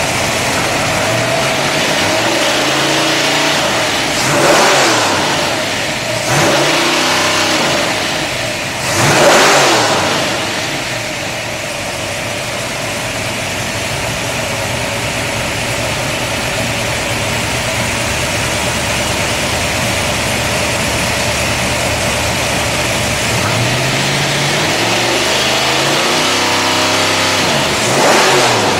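Ford 351 Windsor V8 crate engine with a roller cam, a 400-horsepower build, running after start-up. It is blipped up and down three times in the first ten seconds, then idles steadily, and is revved several more times near the end.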